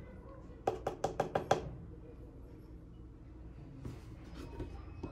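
A quick run of about six sharp taps or knocks about a second in, followed by fainter scattered clicks near the end.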